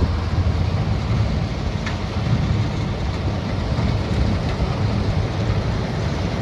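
Combine harvester running steadily in the field, with a deep, even machine rumble and a faint click about two seconds in.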